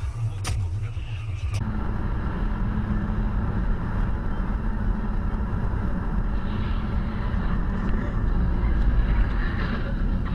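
Steady low rumble of a car driving, as picked up by a dash cam. About a second and a half in, a brief noisier passage with a couple of sharp clicks gives way abruptly to the rumble.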